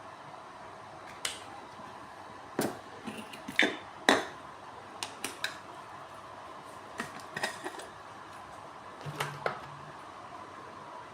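Scattered sharp clicks and light knocks of plastic fittings, tubing and bottle parts being handled and pushed into place, about a dozen over several seconds, the loudest a little past a third of the way in, over a faint steady hum.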